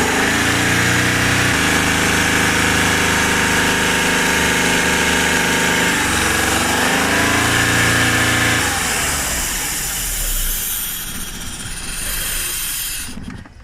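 Subaru Forester's flat-four engine held at raised revs while engine conditioner is sprayed into its intake; the revs dip and recover briefly midway, then fall away and the engine shuts off just before the end.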